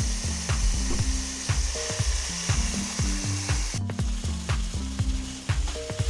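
Food frying and sizzling in oil in a pan, with a spatula stirring and clicking against it. A high hiss drops away about two-thirds of the way through. A repeating low bass line runs underneath.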